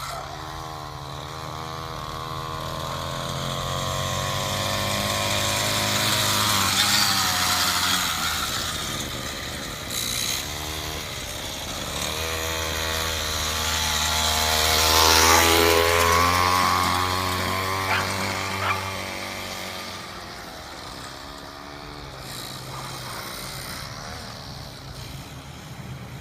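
Small single-cylinder engine of a vintage Eel Wheel minibike running under a test ride, its pitch rising and falling with the throttle. It grows louder as the bike comes close about six seconds in and again at about fifteen seconds, then fades as it rides away.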